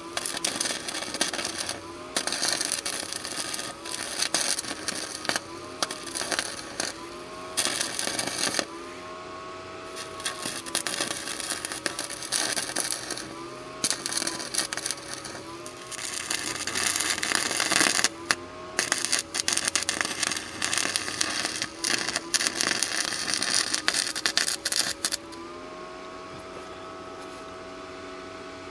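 Stick welding with an Amico ARC 165 160-amp IGBT inverter welder: the arc crackles in runs of a few seconds with short breaks, over the welder's whine, which rises and falls in pitch with the arc. About 25 seconds in the arc stops, and the welder's steady hum goes on alone.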